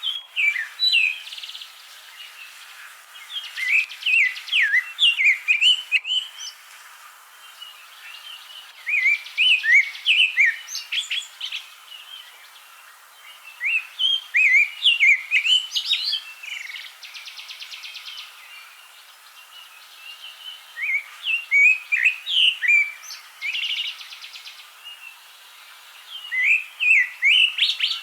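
A thrush singing: phrases of quick, sliding whistled notes every five or six seconds, with short buzzy rattles between some of the phrases.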